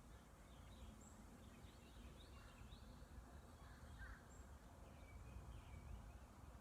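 Faint, scattered bird calls, a few short chirps and notes, over a steady low outdoor rumble.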